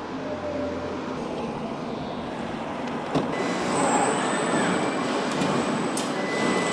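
Steady factory-floor machinery noise on a truck assembly line. There is a sharp click about three seconds in, and a thin high-pitched whine sets in just after it.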